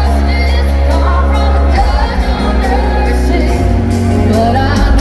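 Live country band playing amplified music with strong low bass and a singing voice.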